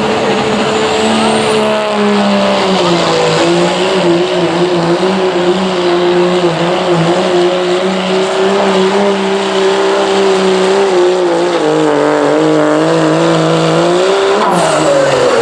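A 1999 Dodge diesel pickup pulling a sled at full throttle. The engine runs loud and steady and settles a little lower a couple of seconds in, with a high turbo whistle over it. Near the end the engine and whistle both drop off sharply as the driver lets off at the end of the pull.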